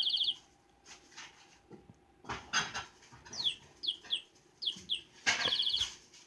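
Battery-powered toy budgie chirping, short high falling chirps in pairs with a buzzy trill, while a pet bird hisses at it in two short rough bursts: a defensive hiss at the small toy bird.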